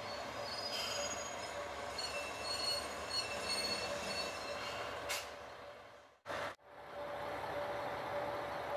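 A train's wheels squealing on the rails as a diesel railcar moves through the station: thin high squeal tones that come and go over a steady rumble. The sound drops out briefly about six seconds in, then a steady hum carries on.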